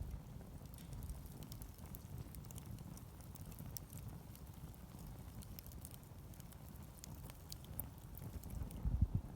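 Wood campfire burning, with scattered sharp crackles and pops over a low rumble that swells near the end.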